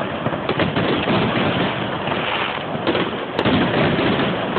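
Fireworks display: a steady barrage of bangs, pops and crackling from shells and stars bursting overhead.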